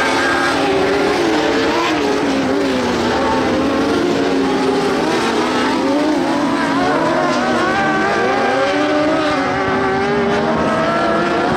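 Several dwarf race cars with motorcycle engines running hard at racing speed, their overlapping engine notes rising and falling as they accelerate and lift around the track.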